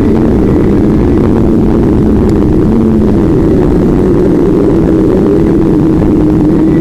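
An engine running at a fairly steady speed, its pitch drifting slightly, under loud rumbling noise.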